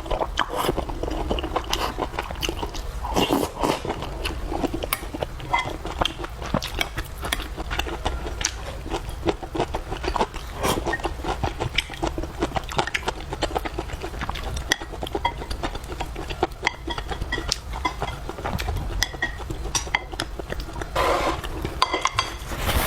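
A person eating: chewing, with many small wet clicks and mouth smacks.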